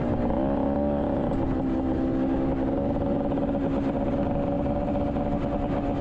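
Honda Odyssey FL250's rebuilt single-cylinder two-stroke engine running under load while being ridden, its pitch dipping and wavering about a second in and then holding steady. Wind rumbles on the microphone.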